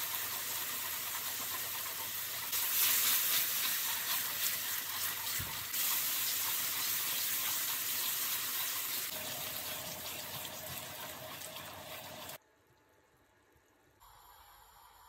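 Masala and chicken sizzling and frying in a metal wok while being stirred with a wooden spoon: a steady, dense hiss. It drops suddenly to a faint hiss about twelve seconds in.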